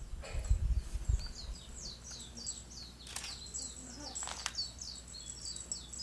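A small songbird calling outdoors: a rapid run of short, high notes, each falling in pitch, starting about a second in and continuing. A few low thumps come near the start, and two sharp clicks come in the middle.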